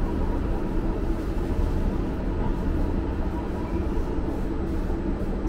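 E5 Series Shinkansen train running, a steady low rumble.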